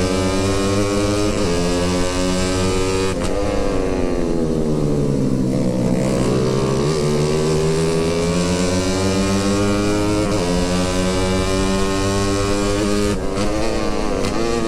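Motorcycle engine under way, its pitch climbing as it accelerates, dropping sharply at a gear change about three seconds in and again about ten seconds in, and sagging for a couple of seconds in between as the throttle eases off.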